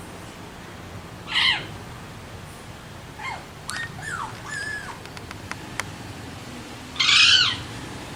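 Alexandrine parakeet calling: two loud calls, one about a second in and one near the end, with softer short whistled notes and a few clicks between them.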